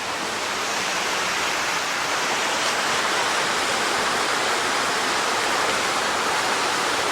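Creek water rushing, a loud steady wash of noise that grows slightly louder about a second in.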